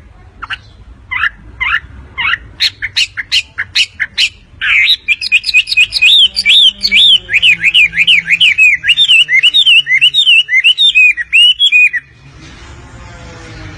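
Wambi songbird singing loudly: a string of separate chirps that come faster and faster, then a long, rapid run of repeated swooping notes. The song cuts off near the end.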